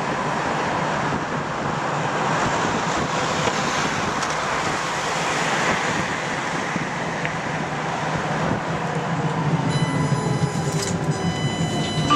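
Tram running on rails, heard from inside the car: a steady rumble and hiss of wheels on track. Over the last few seconds a faint whine falls in pitch, and high steady ringing tones set in near the end.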